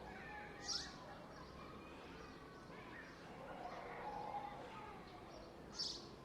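Park ambience: distant people talking over a steady outdoor background, with two short high bird chirps, one about a second in and one near the end.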